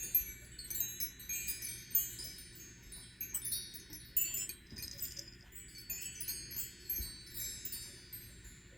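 Chimes tinkling: many short, high ringing notes struck at irregular intervals, over a faint low hum.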